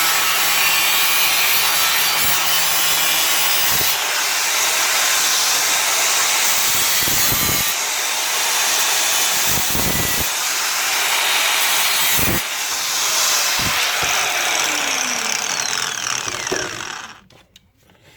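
Angle grinder with a cutting disc cutting through sheet steel, a continuous loud hissing grind that stops suddenly about a second before the end.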